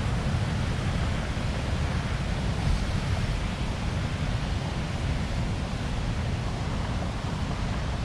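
Steady rush of water pouring through an old timber-and-concrete lake dam, an even noise with no breaks.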